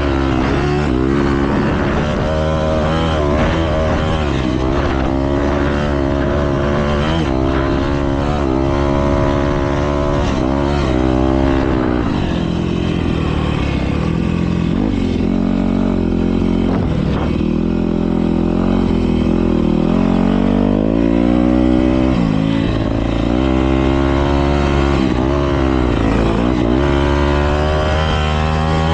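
Several motocross bikes racing together, their engines revving up and dropping back over and over, overlapping one another.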